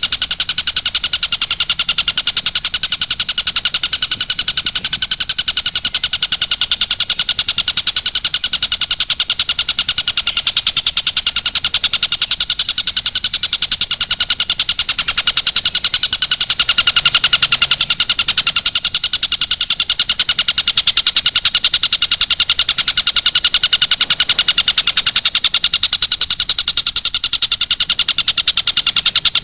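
Recorded song used as masteran for long-tailed shrikes: a steady, unbroken, high-pitched trill of very fast repeated notes.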